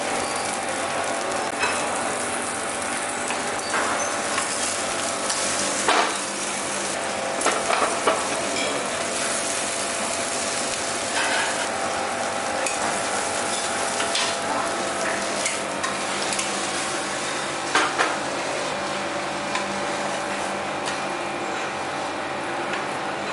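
Mutton kari dosa, topped with minced mutton and egg, sizzling steadily as it fries in a small pan over a gas burner, with a few sharp knocks of the spatula against the pan scattered through.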